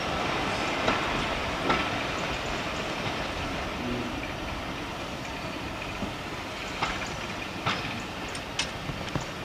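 Train of passenger coaches rolling away over pointwork, its wheels clacking over rail joints a handful of times while the rumble slowly fades.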